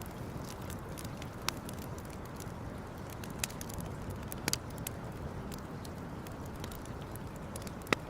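Wood campfire burning with a steady low rush of flame and irregular crackling, punctuated by several sharp pops. The loudest pop comes just before the end.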